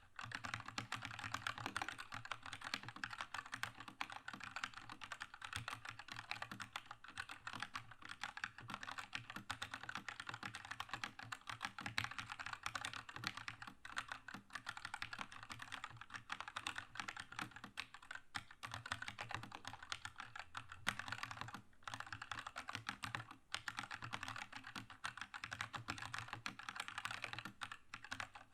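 Continuous fast typing on a Keychron K2 mechanical keyboard with linear red switches: a dense run of key clacks with a few brief pauses.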